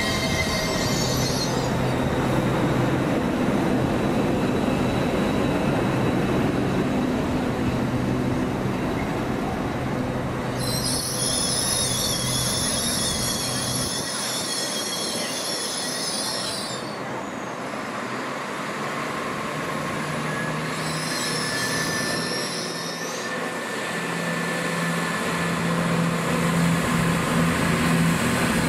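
Trains passing through a station platform: a multiple unit runs along with a steady hum, then an LNER Azuma pulls in with a long, high-pitched, wavering wheel squeal, followed by a shorter second squeal. Over the last few seconds a CrossCountry Turbostar diesel multiple unit draws in, its engine hum growing louder.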